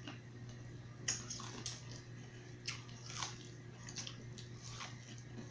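A person chewing and biting food from a seafood boil, with soft wet mouth sounds and a handful of scattered short smacks and clicks, over a faint steady hum.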